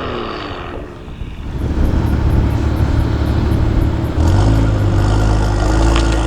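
BMW F87 M2's turbocharged straight-six through an Armytrix valved exhaust. A pass-by fades with falling pitch in the first second, then a loud, low, steady exhaust note comes in from about a second and a half. The note steps up about four seconds in as the engine is held at steady, raised revs.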